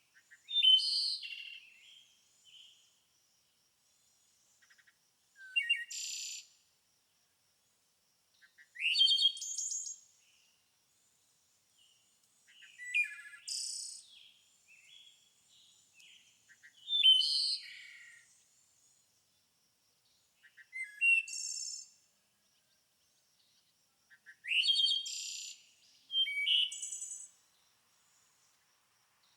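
A songbird singing, giving short, complex phrases of about a second each, roughly every four seconds, with quiet gaps between.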